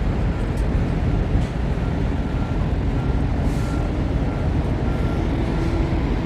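Truck running, a steady low engine and road rumble, with a faint short high beep repeating about twice a second.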